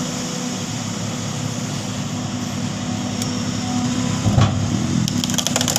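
Large vehicle engine running steadily, growing a little louder about four seconds in, with a knock and a few sharp clicks near the end.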